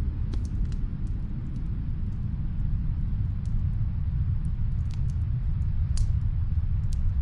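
Snowstorm wind as a steady deep rumble, with a wood fire crackling faintly in the background in scattered small pops, the clearest about six seconds in.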